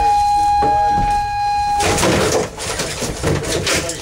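A steady, single-pitched high tone holds for about two seconds and then stops. Irregular clattering and knocks follow.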